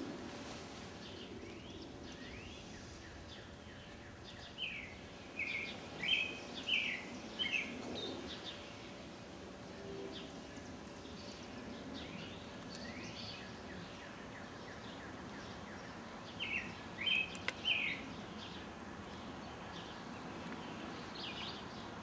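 A songbird singing two short runs of quick chirps, about five seconds in and again near seventeen seconds, over a steady low background noise.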